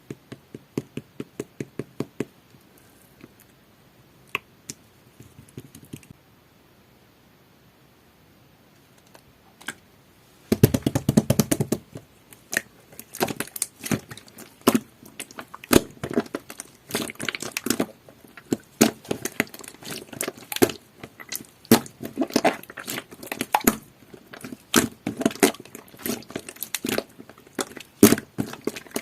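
Jelly-textured slime being pressed and squeezed by hand, giving sharp clicky pops. A few evenly spaced pops at first, then a quiet stretch, then dense crackling pops from about ten seconds in.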